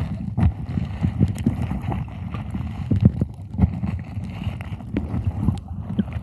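Wind buffeting the microphone: a low rumble with many irregular thumps.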